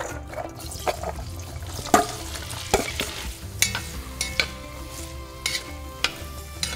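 Chopped onions and celery sizzling as they fry in hot bacon fat while being stirred. A utensil knocks and scrapes against the cookware in irregular sharp clicks, about once a second.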